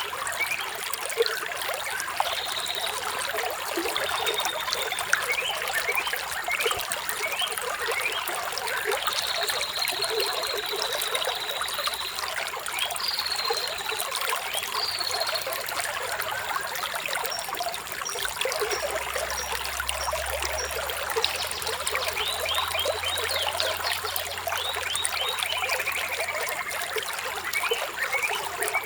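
A small stream trickling and babbling steadily over stones, with high bird chirps and whistled notes coming in at intervals.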